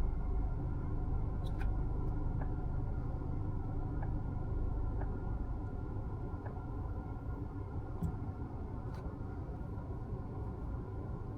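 Steady low rumble inside a Mazda CX-5's cabin, with a few faint light clicks spread through it.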